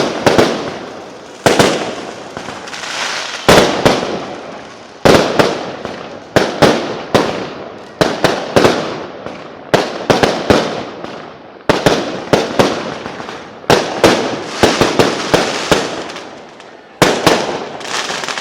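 Aerial fireworks bursting in quick succession, dozens of sharp bangs each trailing off in crackle and echo, with no let-up.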